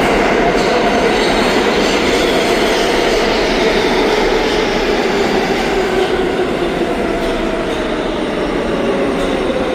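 R143 subway train coasting and slowing into a station: a steady loud rumble of wheels on rail, with humming tones that slowly fall in pitch as it slows.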